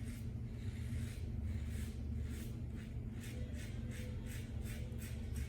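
Merkur 34C double-edge safety razor with a Bic Chrome blade scraping through lathered stubble in short, quick strokes, about three to four a second, on an against-the-grain pass. A steady low hum runs underneath.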